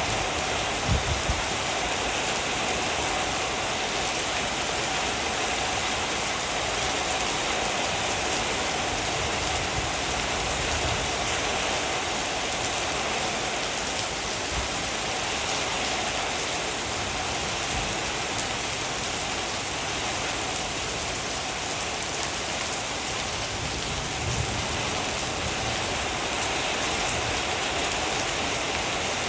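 Heavy rain falling steadily, an even hiss of drops on surfaces, with a couple of brief low thuds about a second in.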